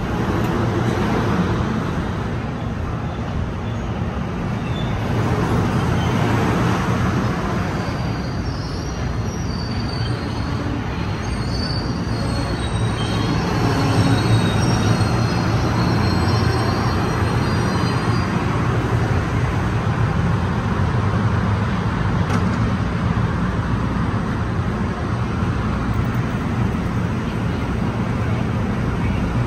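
New Jersey Transit double-decker commuter train pulling into the station at close range: a steady rumble of wheels on rail as the cars roll by. Faint, high brake squeal comes in about ten seconds in and dies away a few seconds later as the train slows to a stop.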